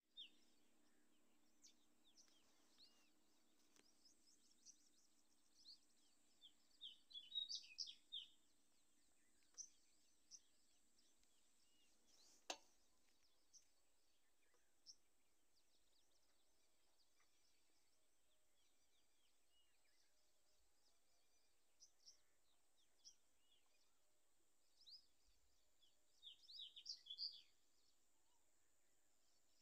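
Faint high bird chirps, scattered and brief, with quick runs of chirping about a quarter of the way in and again near the end; a single sharp click about twelve seconds in.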